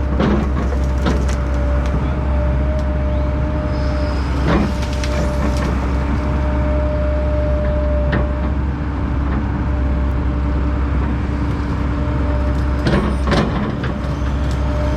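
Heavy diesel land-clearing machine running steadily under load, with a constant low engine hum and a steady whine. Sharp cracks or knocks come now and then: one near the start, one about a third of the way in, and two close together near the end.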